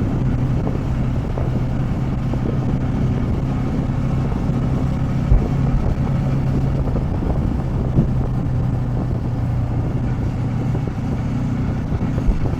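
Motorcycle engine running at a steady low cruising speed, a constant even hum under wind noise on the microphone, with a couple of light knocks about five and eight seconds in.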